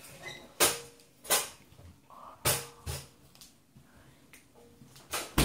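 About five sharp thumps spread out over a few seconds, with the last one the loudest, typical of stomping or banging.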